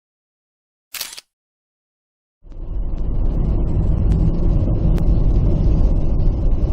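A short burst of hissing noise about a second in, then, after a second of silence, a loud steady low rumble fades in quickly and continues.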